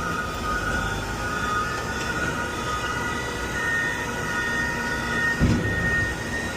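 Peterbilt 520 automated side-loader garbage truck running, with several steady high whining tones over a low rumble and a single thump about five and a half seconds in.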